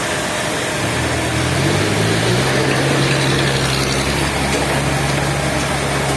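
An engine running steadily, its pitch stepping up slightly about two seconds in, then holding.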